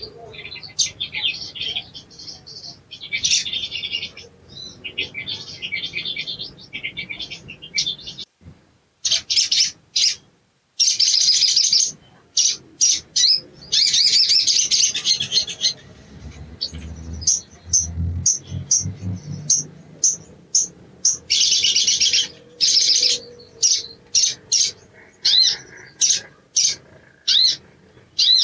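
Pin-striped tit-babbler (sogon) singing in long bursts of rapid, rattling chatter, breaking into a quick run of short, separate notes over the last few seconds.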